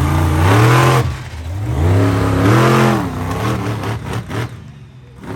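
Monster truck engine revving hard in surges, its pitch climbing and falling about twice, then settling to a quieter, lower run near the end.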